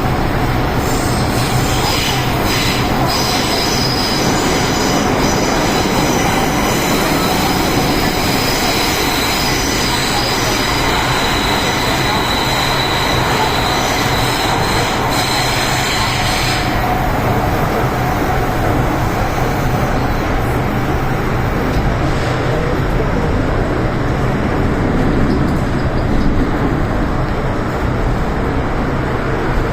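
MTR M-Train electric multiple unit running at speed, heard from on board as a steady rail rumble. A high-pitched squeal rides over it from about a second in until it cuts off sharply about seventeen seconds in.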